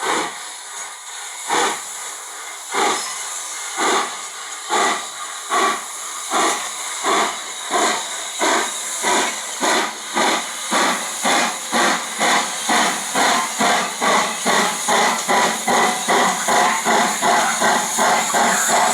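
H.K. Porter 0-6-0T tank steam locomotive chuffing as it pulls away, its exhaust beats speeding up steadily from about one a second to about three a second as it gathers speed.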